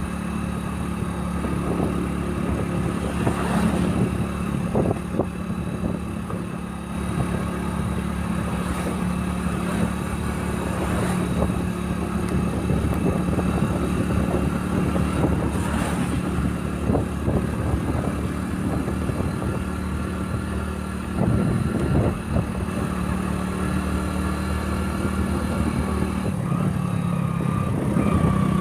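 Motorcycle engine running at a steady speed, a constant hum with a few brief louder moments about three-quarters of the way through.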